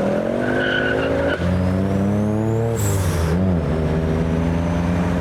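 Ford performance car engine accelerating as it drives in, the revs climbing steadily, then dropping sharply about three seconds in with a short high hiss, as at a gear change. A brief high squeal sounds under a second in.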